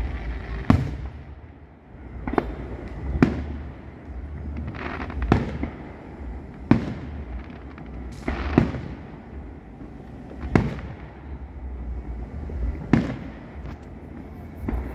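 Aerial fireworks shells bursting at an outdoor display: about eight sharp booms at uneven intervals, one to two seconds apart.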